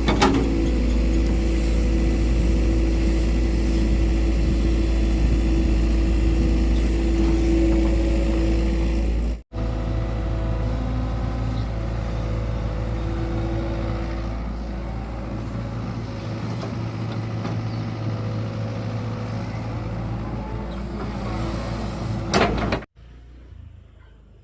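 Excavator engine running steadily, with a low rumble and a steady hum. It breaks off for an instant about nine seconds in, then carries on a little quieter before stopping abruptly near the end.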